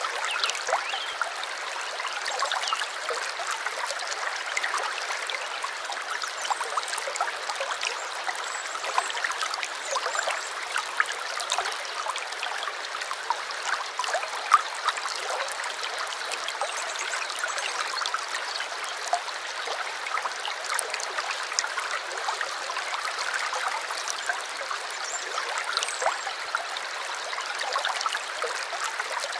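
Small stream trickling and gurgling over stones: a steady rush of water dotted with many small splashes, one a little sharper about halfway through.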